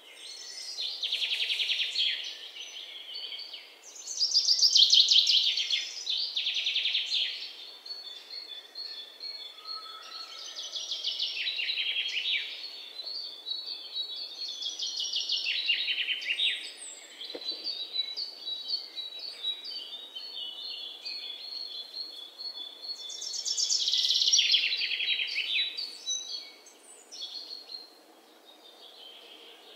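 Birdsong: rapid, high chirping trills that come in bursts of a second or two, repeating every few seconds.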